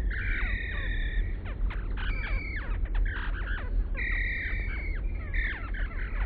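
Hummingbird chirps played back slowed down: many quick, falling chirps mixed with several short held high notes, over a steady low rumble.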